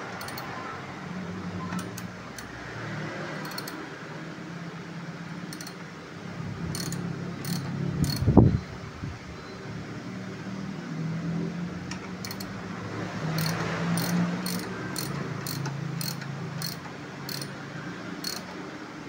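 Metal hand tools clicking and clanking on transmission parts while a dual-clutch transmission is assembled, with one louder clank about eight seconds in and a run of quick clicks near the end, over a steady low hum.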